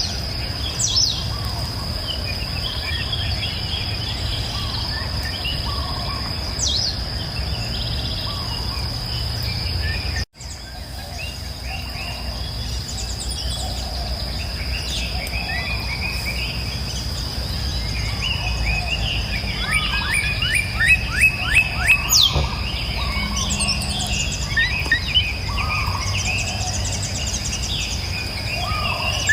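Several songbirds chirping and singing, with a quick series of loud chirps about two-thirds of the way in. Beneath them runs a steady high insect drone over a low background rush. The sound drops out for an instant about a third of the way in.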